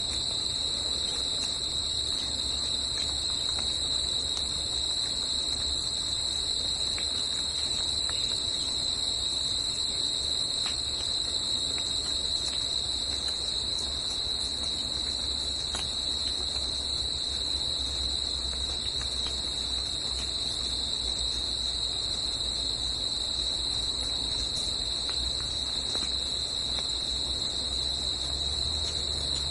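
Steady chorus of insects, a continuous high-pitched shrill drone, over a low steady rumble.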